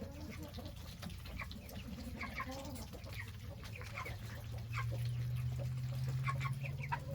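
A pen of four-week-old meat chickens and Muscovy ducks peeping and clucking in short, scattered calls. A low steady hum joins in about halfway through.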